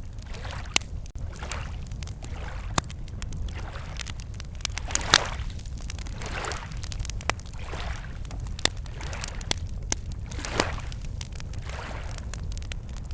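Wood campfire crackling with many sharp pops, over small lake waves lapping at the shore in soft swells every second or two.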